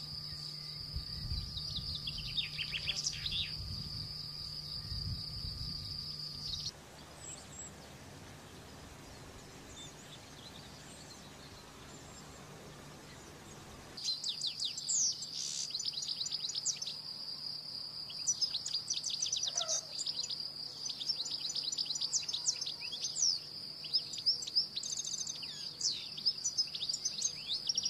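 Canaries singing: quick chirps and trills over a steady high-pitched trill. The song breaks off for several seconds about a third of the way in and then resumes.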